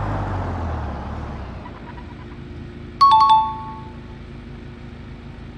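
A low rumble dies away, then a two-note ding-dong chime sounds once about three seconds in, the second note lower, over a faint steady hum.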